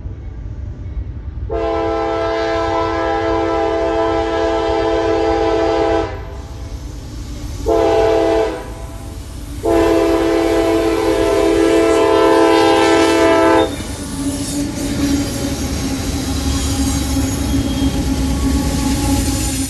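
CSX freight locomotive's multi-chime air horn sounding a long blast, a short blast and another long blast, the grade-crossing warning pattern. Then the train passes with rumbling and wheel noise on the rails.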